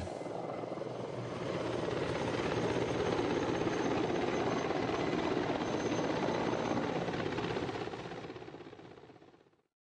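Mi-24 Hind helicopter noise: a steady rumble of rotor and engines that grows louder over the first couple of seconds, then fades away to silence over the last two seconds.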